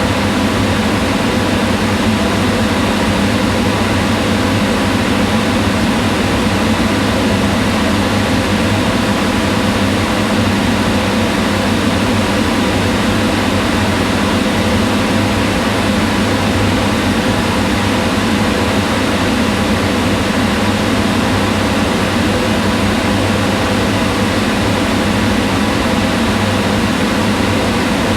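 Kitchen range hood fan running steadily: an even whirring rush of air with a low hum.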